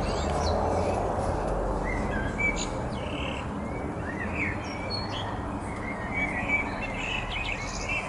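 Small birds chirping and twittering in short repeated calls, over a steady low rumbling background.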